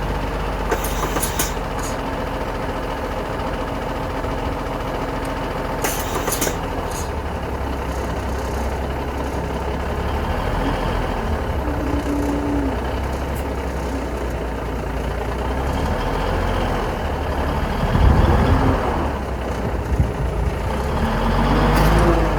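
FMTV military truck's diesel engine running under load while it pulls on a stubborn tree stump, swelling louder twice in the last few seconds. Short sharp hisses of air sound about a second in and again about six seconds in.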